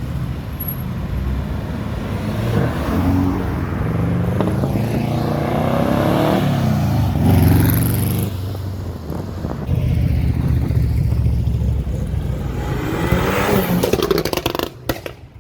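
BMW car engine revving hard and accelerating, its pitch climbing and falling several times. It is loudest about halfway through and cuts away sharply near the end.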